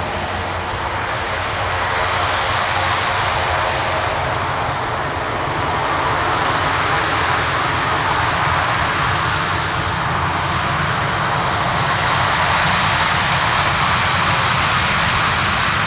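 Fixed-wing aircraft engines running steadily, the sound slowly growing louder.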